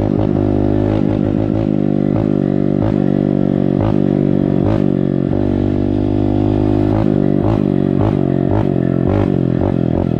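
Honda dirt bike engine running at idle through a gutted exhaust with no silencer insert, with short, quick throttle blips every half second to second.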